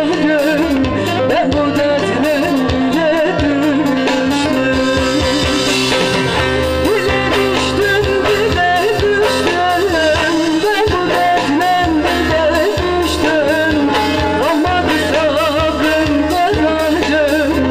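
Live Turkish folk song (türkü) with a singer over amplified instruments and a steady drum beat.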